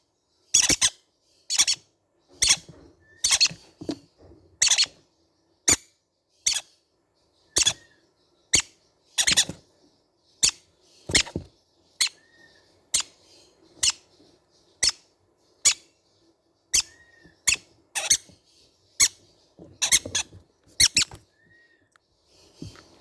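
Baby green-cheeked conures giving short, harsh, squeaky calls about once a second, with a few faint soft chirps between them.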